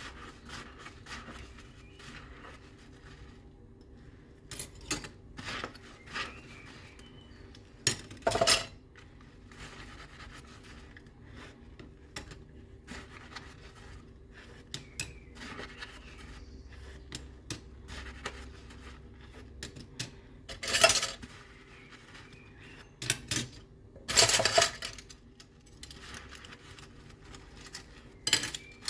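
Dishes and cutlery being hand-washed: scattered clinks and knocks of crockery and utensils, with a few louder, sharper clinks spread through.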